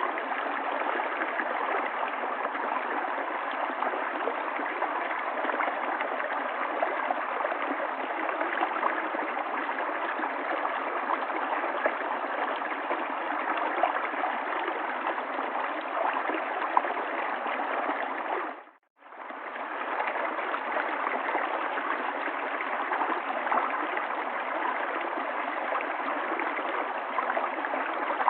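River water flowing steadily, a continuous rushing. About two-thirds of the way through it fades out for a moment and comes back in.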